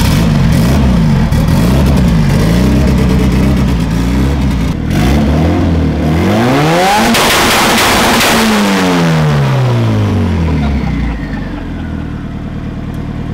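Honda D16 1.6-litre four-cylinder engine in an EG Civic hatchback, freshly installed, being revved. It blips up and down several times, then climbs in one long rev and falls back, settling to a low idle near the end.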